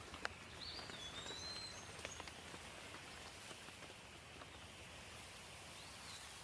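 Steady rain with scattered drips. A bird's whistled call comes twice, a long swooping note about half a second in and a short one near the end.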